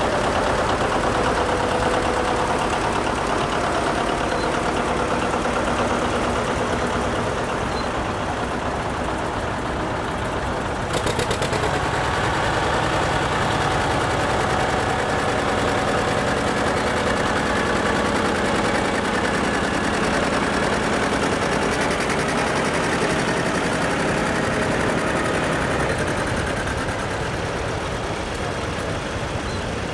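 Antique tractor engines running at low speed as tractors drive past in a line. The sound changes suddenly about eleven seconds in, then carries on steadily.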